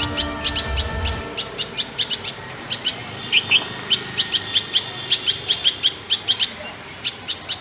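Small birds chirping: a dense run of short, high cheeps, several a second, with a few double notes. Background music ends about a second in.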